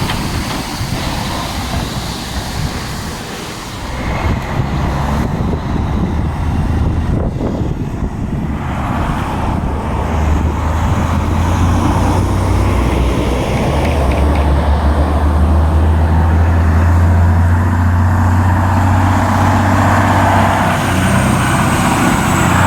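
Heavy dump truck's diesel engine running past, its low drone building from about ten seconds in and easing off near the end, over steady road-traffic noise.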